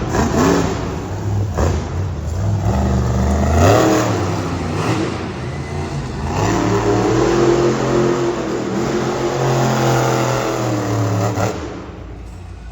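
Monster truck engine revving in several surges, its pitch climbing and falling, dying away near the end.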